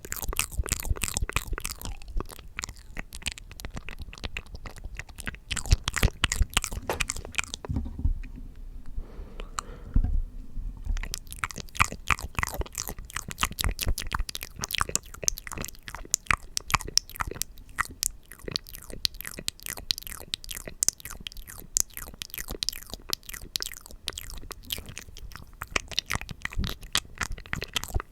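Close-miked ASMR mouth sounds: a dense run of wet clicks and smacks. A quieter stretch about a third of the way in holds a few low thumps.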